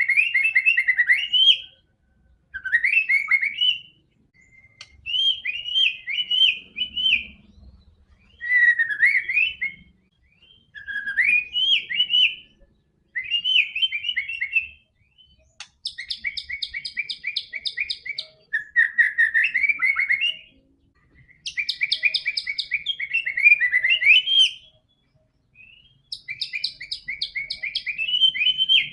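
White-rumped shama (murai batu) singing a string of phrases, each about one to two seconds long with a short pause between. The phrases mix sweeping whistled notes with fast runs of repeated notes.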